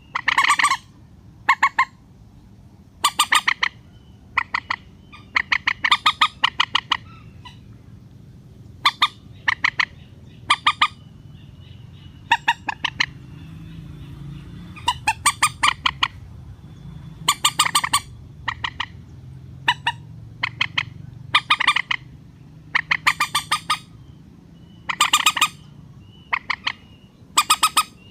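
Lure recording of mandar (rail) calls: short bursts of rapid, clucking notes repeating every second or two, over a faint low hum.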